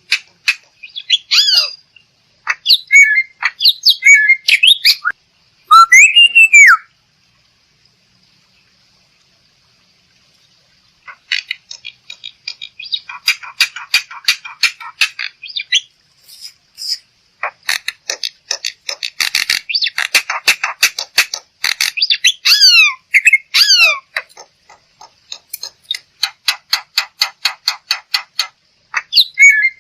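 Black-winged myna (jalak putih) calling: harsh squawks and sliding whistled notes mixed with fast, rattling chatters, broken once by a pause of about four seconds after the first few calls.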